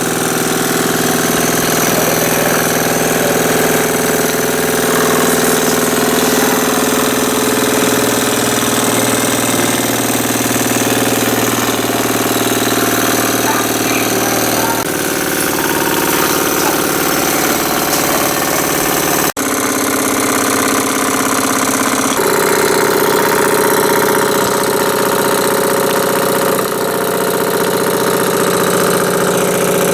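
Jensen model steam engine with a slide valve running steadily on live steam after its boiler has been unplugged, left to wind down. Its running note changes a little about 15 s in, and it breaks off briefly about 19 s in before carrying on.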